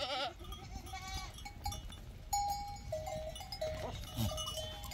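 Sheep and goats bleating, with wavering calls at the start and about a second in, and steadier held tones in the second half that sound like livestock bells ringing.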